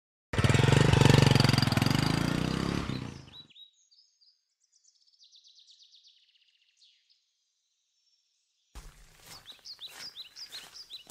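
A small motorcycle engine runs loudly as the bike pulls up, then dies away and stops about three and a half seconds in. Birds chirp after that, and near the end come footsteps on rough ground with more bird calls.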